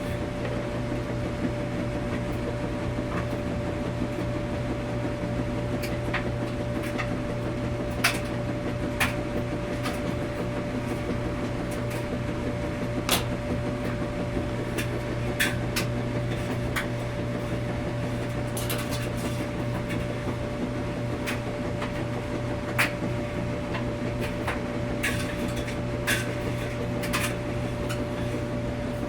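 Washing machine running with a steady hum that holds one mid-pitched tone, with irregular clicks and light knocks every few seconds.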